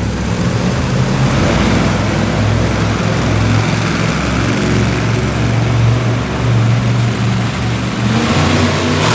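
Monster truck engine running loud at high revs, its pitch wavering up and down and rising near the end.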